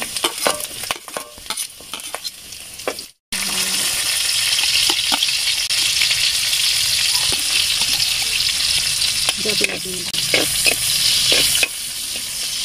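Garlic and sliced onion frying in hot rendered pork fat in a metal pan, stirred with a spatula that clicks and scrapes against the pan. There is lighter stirring first, then a short silent gap about three seconds in, after which a loud, steady sizzle takes over.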